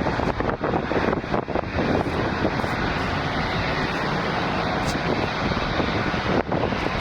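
Jet airliner engines running, a loud, steady rush of noise, with wind buffeting the microphone during the first two seconds.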